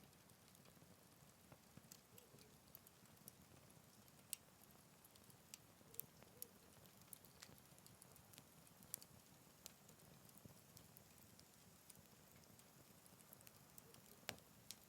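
Wood fire burning in a Picogrill 398 fire stand, crackling faintly: scattered sharp pops, a handful louder than the rest, over a soft low hiss.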